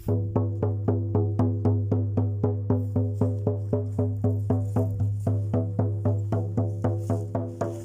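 Shaman's frame drum beaten in a steady, even rhythm, about four strokes a second, each stroke ringing with a deep hum.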